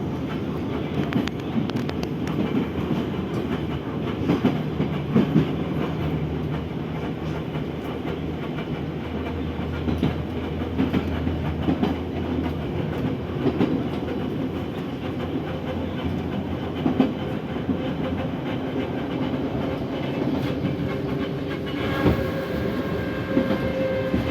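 Moscow metro 81-717/714 train running between stations, heard from inside the car: a steady rumble with wheels clicking over rail joints. Near the end a few steady whining tones come in over the running noise.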